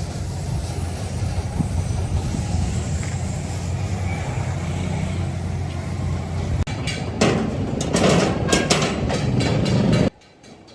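Steady low hum of workshop machinery. About seven seconds in, a louder run of rough, noisy clattering strokes joins it, and all of it cuts off suddenly near the end.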